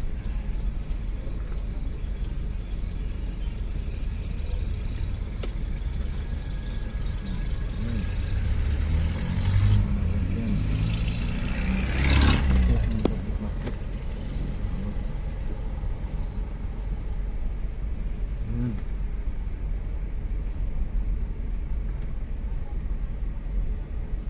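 Street traffic: a steady low engine rumble, with a vehicle passing close and loud about ten to twelve seconds in.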